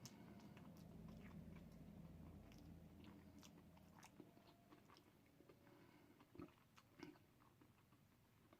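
Faint close-up chewing of food, with scattered small wet mouth clicks.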